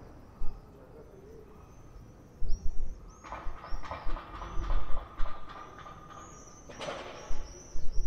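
Birds calling, with many short, high chirps repeating throughout, over low rumbling thumps from wind on the microphone.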